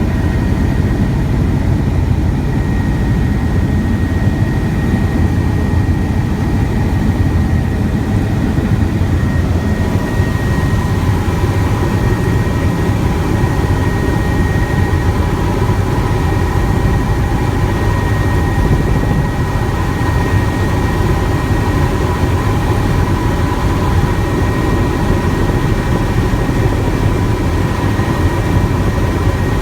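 Helicopter in flight: steady loud rumble of the rotor and engine, with a constant high whine from the turbine and gearbox.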